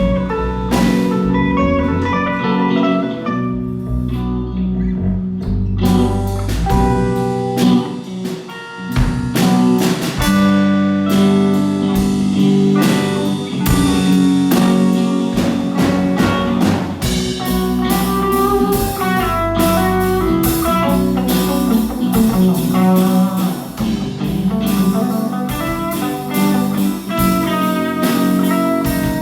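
A band playing a song: guitar over bass and drum kit, with regular drum hits throughout.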